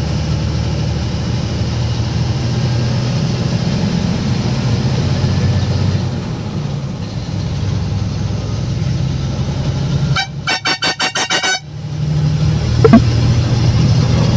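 Loaded lorry's engine running steadily while driving. About ten seconds in, a horn sounds in a rapid series of about eight short toots over a second and a half, then the engine carries on.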